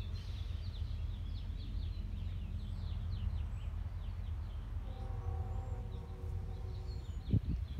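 Small birds chirping rapidly over a steady low rumble. Partway through, a steady hum comes in for about a second and a half, and a soft thump sounds near the end.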